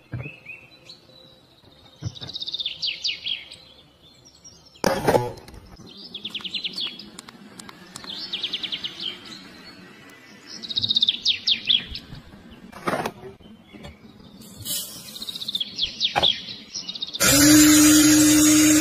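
Small songbird singing in short trilled phrases of rapid high chirps, one every couple of seconds, with a few sharp clicks between them. Near the end a loud harsh buzz with a low steady hum cuts in for about a second and a half and stops abruptly.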